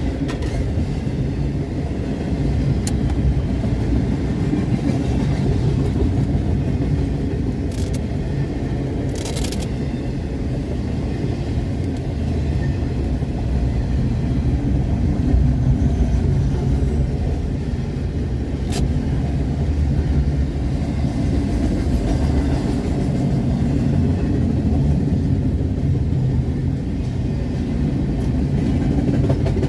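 Freight train rolling past, a steady low rumble of wheels and cars on the rails with a few sharp clicks.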